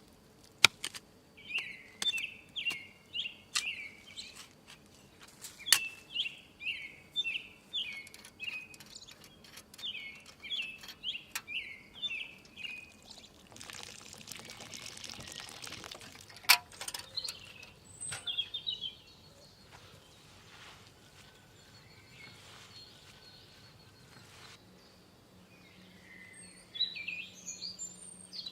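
A bird calling in quick runs of short, high chirps, with sharp knocks and clicks scattered among them. Midway comes a rush of noise lasting about three seconds, and more bird calls follow near the end.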